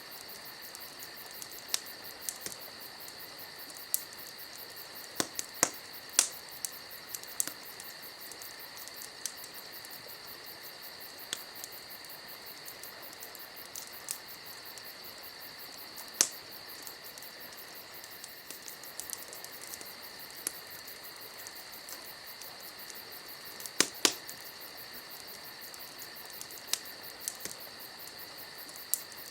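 Campfire crackling, with sharp irregular pops from the burning wood; the loudest snaps come about six seconds in and a close pair near the end. Under them runs a steady high-pitched chirring.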